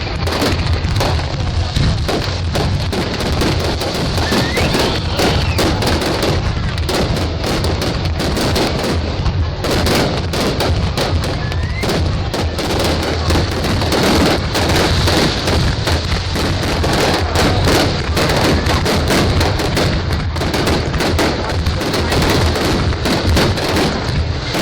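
Fireworks display going off continuously: rapid, overlapping bangs and crackles with no break.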